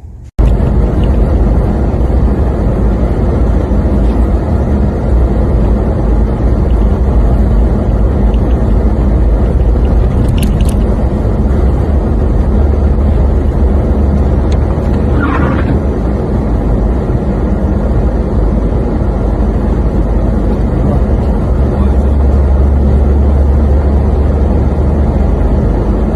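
A car driving, with a steady, loud, low rumble of engine and road noise that starts abruptly.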